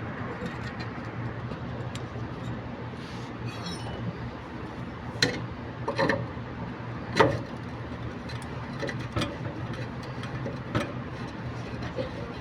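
Several sharp taps and clinks of hard objects, over a steady low hum; the loudest knock comes about seven seconds in.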